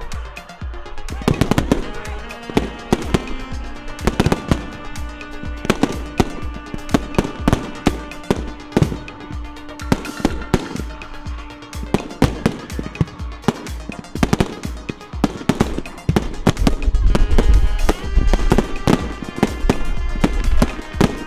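Fireworks bursting in rapid, irregular bangs over loud music, with the bangs coming thickest and deepest near the end as a dense barrage.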